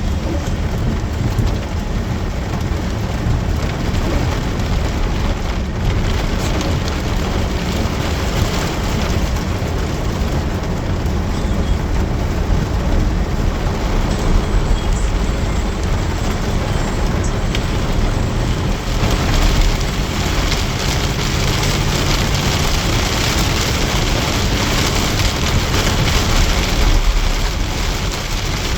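Heavy rain pouring steadily, with a constant low rumble underneath; the downpour grows heavier about two-thirds of the way through.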